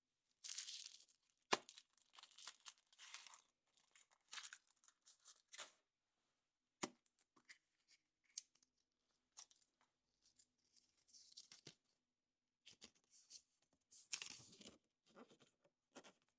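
Thin foil wrapper being torn and crinkled off a chocolate surprise egg, in irregular rustling bursts, with a couple of sharp clicks about a second and a half in and near seven seconds.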